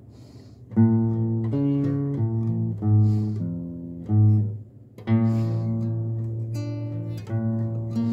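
Acoustic guitar strummed, starting about a second in, playing the chord intro to a song.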